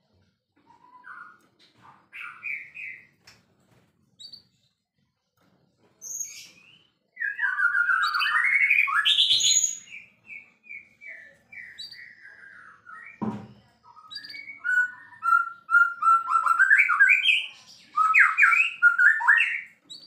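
White-rumped shama (murai batu) in full song: loud, varied phrases of quick whistles, trills and chirps, coming in bursts with short pauses between them. A single sharp knock about 13 seconds in.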